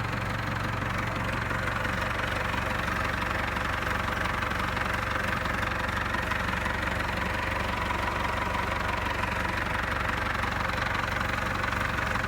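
Valdez tractor's engine idling steadily with an even low hum.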